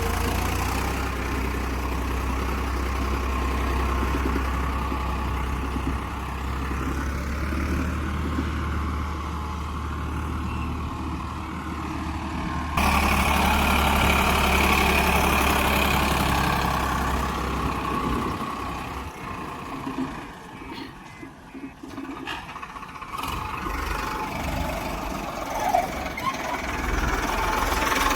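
Diesel engine of a heavy machine running steadily. About thirteen seconds in the sound changes abruptly and gets louder, and it drops to a quieter, uneven stretch around twenty seconds in.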